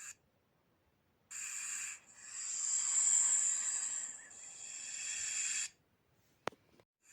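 Snake hissing: a short hiss about a second in, then a longer drawn-out hiss lasting several seconds. A sharp click comes near the end.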